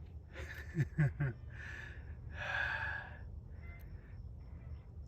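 A person breathing hard: a short voiced grunt about half a second in, then several heavy exhalations that grow weaker toward the end. A faint steady high-pitched chirr sounds in the background from about halfway through.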